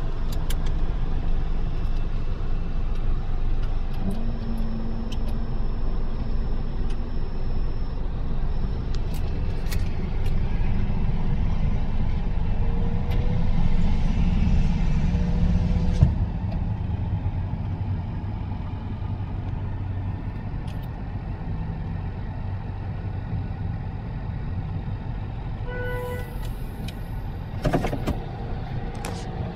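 Car engine idling and creeping forward at low speed, heard from inside the cabin as a steady low rumble, with scattered clicks and a short electronic beep near the end.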